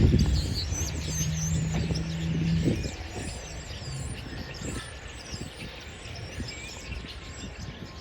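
A large flock of birds chirping and calling over a low rumble, with a steady hum that is loudest in the first three seconds and then drops away.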